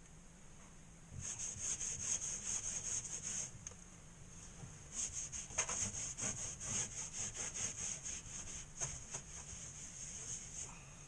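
Hand sanding of a dried joint-compound drywall patch: quick back-and-forth rubbing strokes in two bursts, the second one longer.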